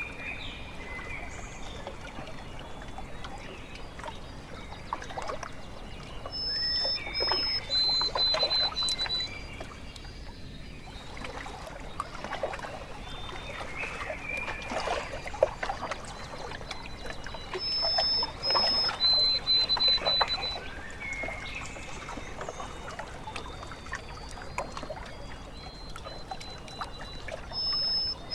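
Small waves lapping and trickling at a lakeshore, with birds calling over it: short, high, steady whistled notes that come back about every ten seconds.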